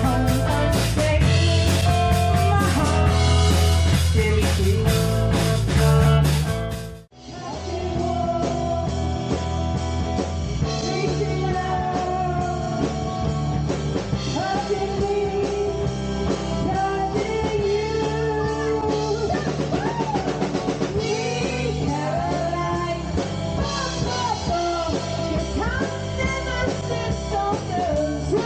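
A four-piece rock covers band plays live, with drum kit, guitar and bass. The music cuts abruptly about seven seconds in to another song, in which a singer comes in over the band.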